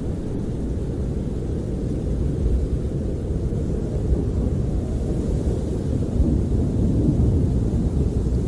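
Snowstorm wind buffeting a camper, heard from inside as a low, steady rumble that swells a little about six to seven seconds in.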